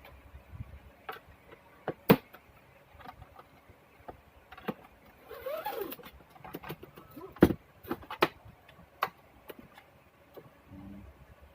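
Plastic monitor case being pried at its snap latches: scattered sharp clicks and knocks, with a short squeak about halfway through.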